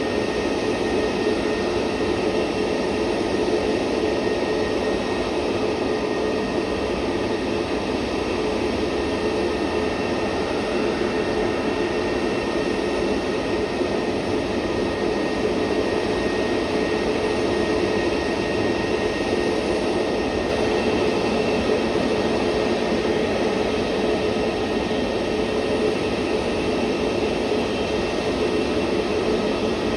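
Airliner jet engines running at a steady level: an even rush of noise with a steady whine, neither building nor fading.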